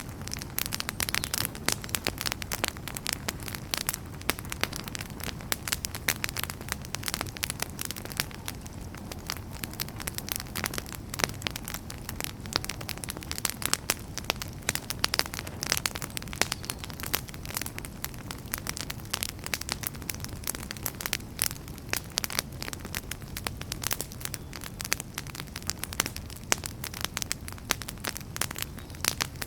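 Wood fire burning in a fireplace: dense, irregular crackling and snapping of burning logs over a low, steady rumble of flame.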